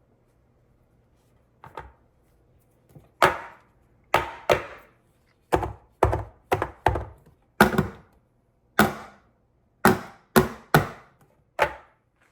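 A series of about a dozen sharp kitchen thunks, irregularly spaced and each dying away quickly.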